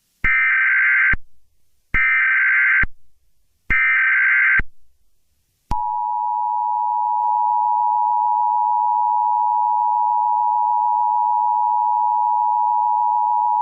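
Emergency Alert System SAME header: three short bursts of data tones about a second each, then the EAS two-tone attention signal starting about six seconds in, a steady loud two-pitch tone that marks the start of an emergency alert broadcast.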